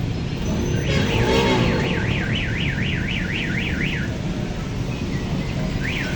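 An electronic alarm warbling rapidly up and down, about three to four sweeps a second, for about three seconds, then starting again near the end. Underneath is a steady low rumble of road traffic.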